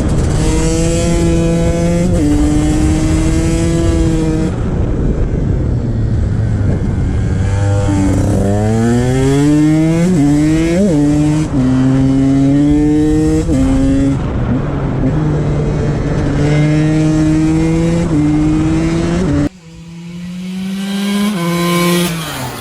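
KTM XC-W 125 single-cylinder two-stroke engine being ridden hard. The pitch climbs as the bike pulls through each gear and drops at every upshift, with one deep fall and a steep rev back up near the middle. Near the end the throttle shuts and the engine falls off sharply, then revs up once more.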